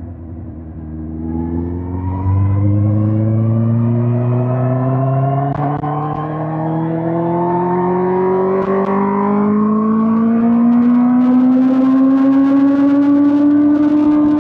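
2005 Suzuki GSX-R1000 K5's inline-four engine pulling through one long, steady acceleration without a gear change. Its pitch climbs slowly throughout, and it gets louder as the throttle opens about two seconds in. A rushing hiss builds near the end.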